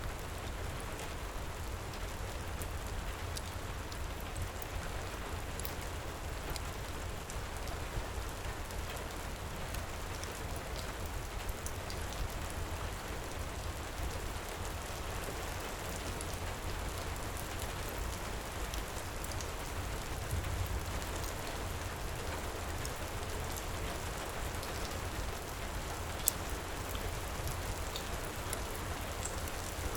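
Heavy rain pouring steadily, mixed with a fireplace's scattered small crackles and one sharper snap near the end.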